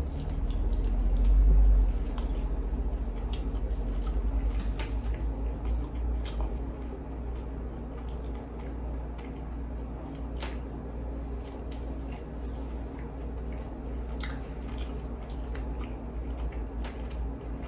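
Close-miked chewing of glazed fried chicken tenders: wet squishing and smacking with scattered small crunchy clicks, loudest in the first couple of seconds as a fresh bite is chewed.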